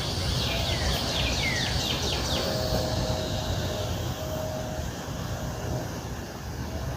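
Birds chirping outdoors: a quick run of short descending chirps in the first couple of seconds, then quieter, over a steady low rumble.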